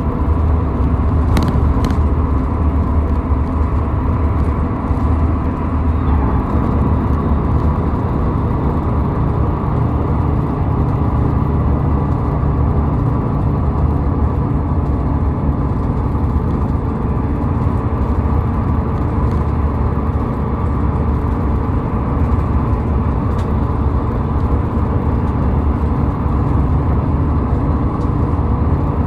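A car driving at highway speed: steady low road and engine rumble from tyres and drivetrain, with a brief click about a second and a half in.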